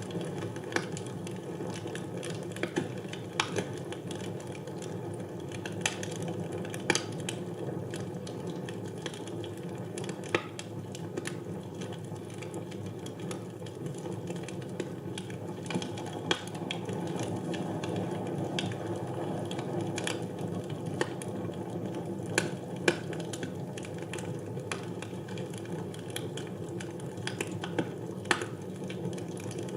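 Wood fire burning in a fireplace: a steady low rush with irregular crackles and pops.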